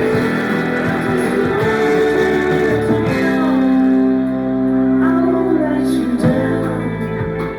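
Live rock band playing an instrumental passage with electric guitar to the fore and long held chords in the middle.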